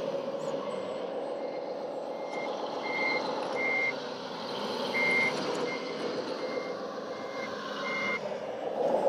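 Radio-controlled truck's sound module playing a truck engine hum with a reversing beeper sounding over it, short single-pitched beeps about every ¾ second that pause briefly midway.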